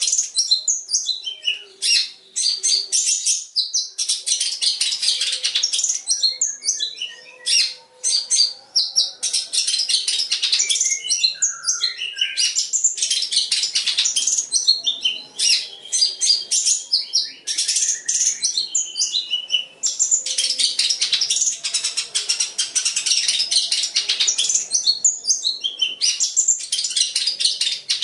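Long-tailed shrike (cendet) singing a fast, almost unbroken run of high chirping notes, with mimicked calls of other birds such as the Eurasian tree sparrow woven into the song.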